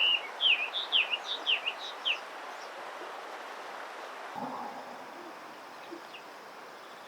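Eastern spot-billed duckling peeping: a quick run of short, high chirps that stops about two seconds in, leaving a steady background hiss.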